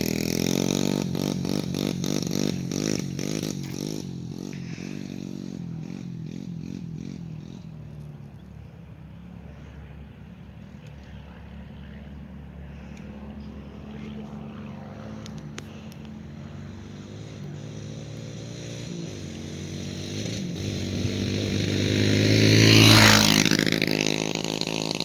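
Yamaha TT-R90 dirt bike's small air-cooled four-stroke single running with its choke stuck, fading as it rides away, then growing louder as it comes back and passes close about 23 seconds in, its pitch dropping as it goes by.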